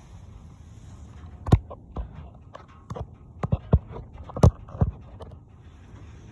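A series of irregular thumps and knocks, several in quick succession in the middle.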